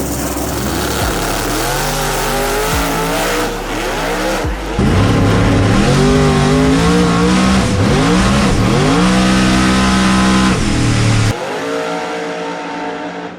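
V8 drag car on a full-throttle pass, its engine pitch climbing and falling back several times as the tires break loose and spin. The engine note cuts off sharply about eleven seconds in and then fades.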